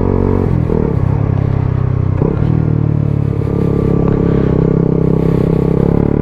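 Suzuki GSX-S 125's single-cylinder four-stroke engine, breathing through a Mivv GP Pro aftermarket exhaust, running under way. There is a short break in the engine note about two seconds in, then it pulls on steadily.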